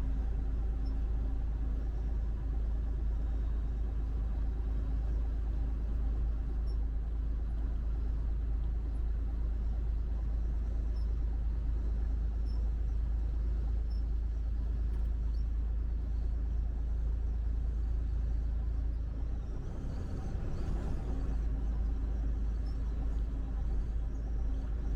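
Steady low rumble of a vehicle driving on a highway, with a steady engine hum over it. About twenty seconds in the rumble dips briefly and a short rush of wider noise passes.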